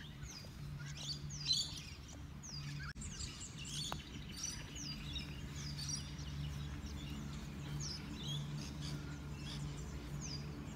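Wild birds chirping outdoors: repeated short, high calls that sweep down in pitch, heard over a steady low hum.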